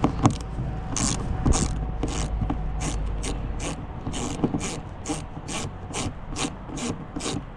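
Socket ratchet wrench being swung back and forth on a bolt, each return stroke a short rasp of pawl clicks, about three strokes a second.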